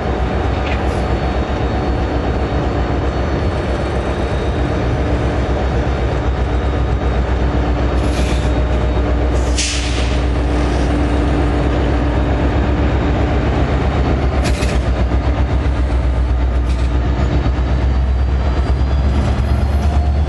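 Diesel-hauled commuter train pulling out of the station and rolling past, gaining speed, with a steady low rumble. Short high-pitched wheel squeals come a few times as the coaches pass.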